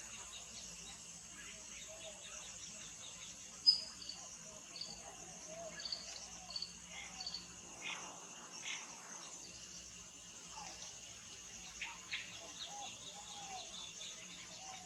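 Wild birds calling over a steady high insect drone: a run of short, high chirps, the first and loudest about four seconds in, and scattered lower whistled notes throughout.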